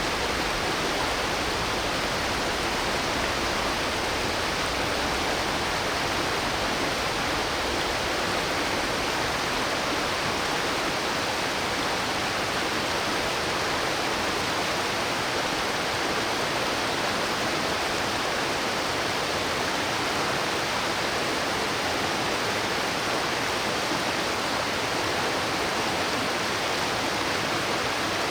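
Mountain stream running with a steady, unbroken rush of water.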